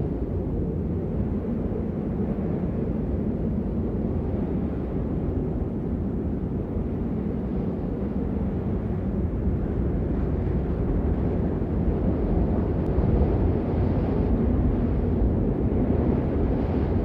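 Steady rain noise, a dull low rush with little hiss on top, unbroken and even throughout.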